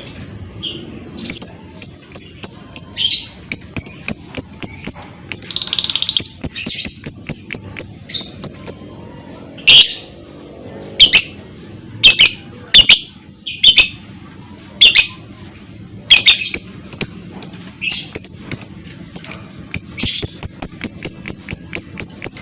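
Lovebird singing: runs of short, high chirps repeated several times a second, broken by loud, sharp shrill calls.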